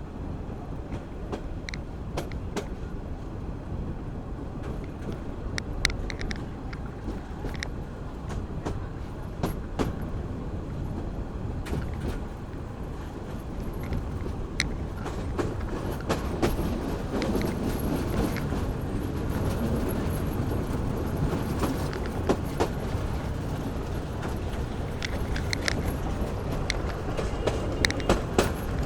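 Local train running along the track: a steady low rumble with scattered sharp clicks and knocks, growing a little louder about halfway through.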